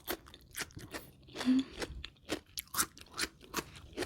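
Close-miked chewing of crunchy food, with sharp crunches about three times a second and a short low hum near the middle.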